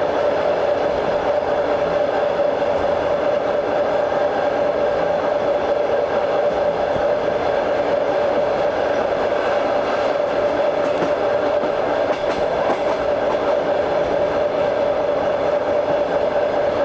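Train running steadily, heard from on board: continuous noise of the wheels on the rails with a steady tone over it.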